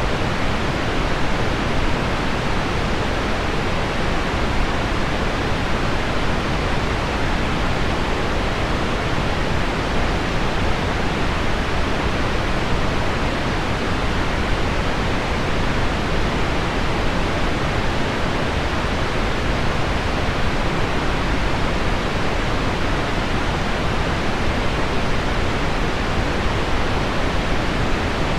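Steady, even rushing noise of a heavy-rain-on-window ambience track blended with low pink noise, with no separate drops, tones or changes.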